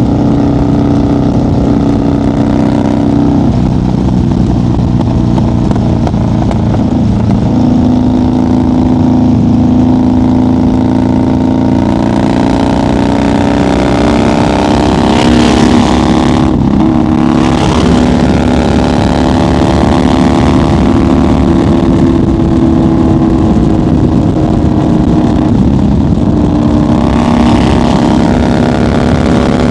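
A 1990 Harley-Davidson FXR's Evolution V-twin running at highway speed. The engine note climbs gradually through the first half, breaks briefly about halfway through, then holds a steady cruise.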